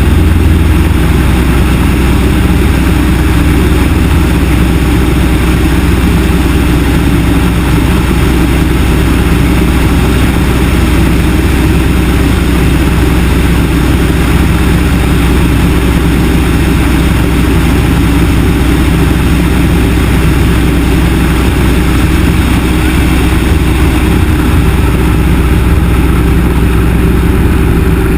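Yak-18T light aircraft's nine-cylinder M-14P radial engine and propeller running at a steady, unchanging drone, heard loud from inside the cabin.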